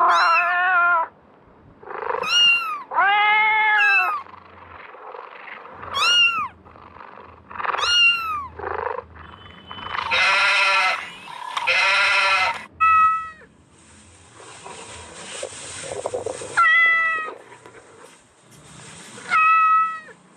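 Kittens meowing: a string of about eight short meows, each rising and then falling in pitch, some high and thin. About halfway through come two longer, hoarser, noisier calls.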